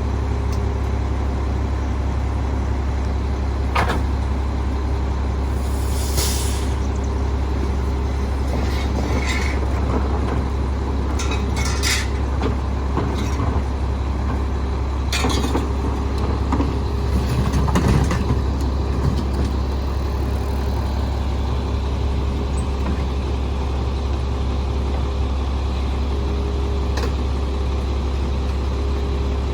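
Rear-loader garbage truck's diesel engine running steadily, with scattered metallic clanks and knocks and a short air hiss about six seconds in.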